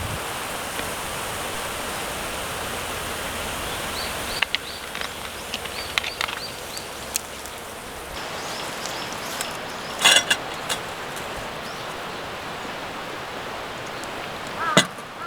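Steady rushing noise, with short high chirps about five seconds in and sharp clinks, the loudest about ten seconds in.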